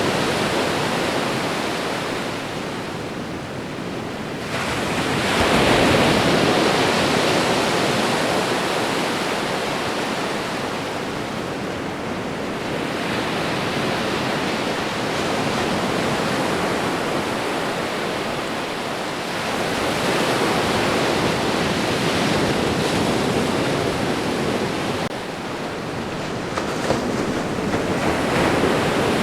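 Ocean waves breaking and washing on a shore, a continuous surf that swells and eases every several seconds.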